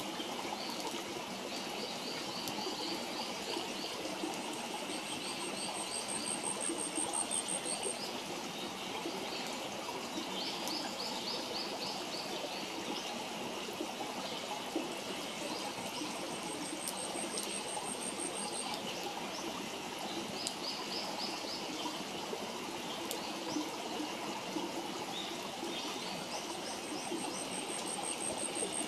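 Steady rush of running water, like a stream, with birds singing: a high rapid trill three times, about ten seconds apart, and shorter chirping phrases between. A few sharp crackles from the wood fire.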